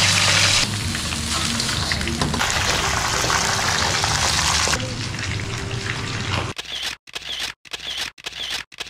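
Noodles sizzling as they are stir-fried in a wok with a spatula. About six and a half seconds in the frying gives way to a quieter, choppy stretch broken by short silent gaps about twice a second.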